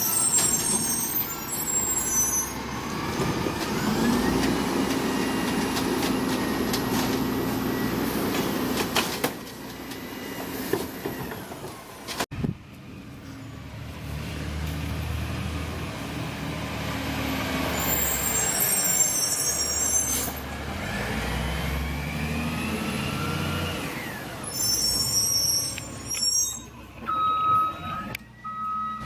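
Recycling truck's diesel engine running and revving up and down, with short sharp air-brake hisses three times: at the start, near the middle and near the end. Reversing beeps start in the last couple of seconds.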